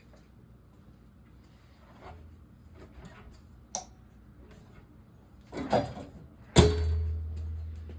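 Work noise from handling hardware: a few light clicks and knocks, a scrape, then a sharp loud bang about two-thirds of the way through that leaves a low ringing hum fading away.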